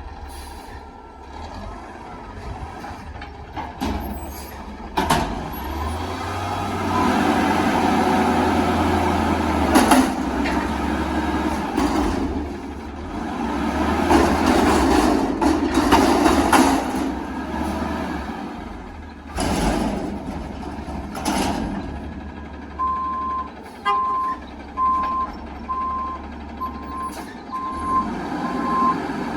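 Front loader garbage truck working a commercial dumpster: the engine revs up and down under hydraulic load for several seconds, with several loud metal bangs, then the reversing alarm beeps steadily, a little under once a second, as the truck backs up.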